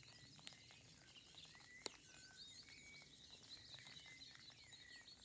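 Faint outdoor birdsong, many small chirps and whistles from several birds, over light rain pattering in scattered ticks. One sharper tick stands out about two seconds in.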